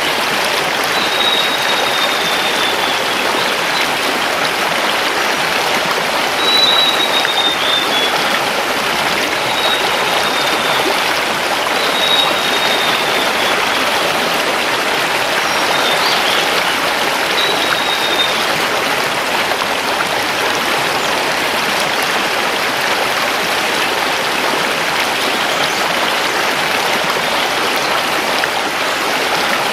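A mountain river rushing steadily over stones. A bird gives short, high, falling calls every few seconds during the first half.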